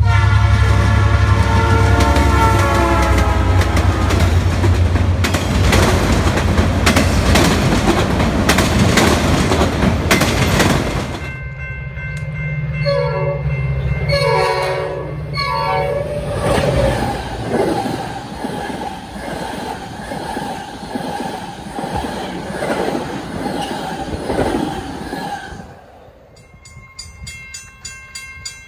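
A diesel freight locomotive sounds its multi-note horn for about four seconds, then passes close by, its engine and the train's wheels loud over the rails. About eleven seconds in, a commuter train approaching sounds several short horn blasts, and its engine hum follows. Near the end everything drops to a quiet background with a distant train.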